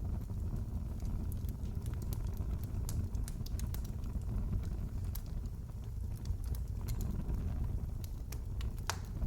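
Fireplace fire crackling: scattered sharp pops and snaps over a steady low rumble, with one louder pop near the end.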